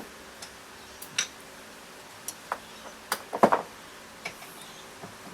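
Scattered light clicks and knocks of tools and metal fork parts being handled during a motorcycle fork rebuild, with a short cluster of louder knocks about three and a half seconds in.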